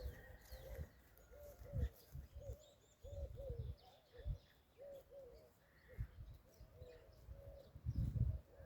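Pigeons cooing: a steady run of short, arched, low notes, about two a second. Several low thumps come in between, and a few faint high chirps sound about two and a half seconds in.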